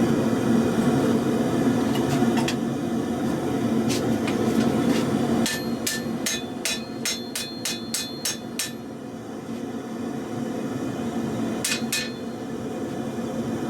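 Hammer blows on truck leaf-spring steel at an anvil during forging: a fast run of about a dozen ringing strikes, roughly three to four a second, in the middle, and two more strikes near the end, over a steady rushing noise.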